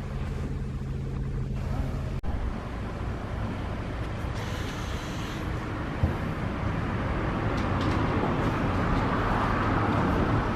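Car engine running at a steady speed, then, after an abrupt cut, a car on the move with road and wind noise that grows louder toward the end.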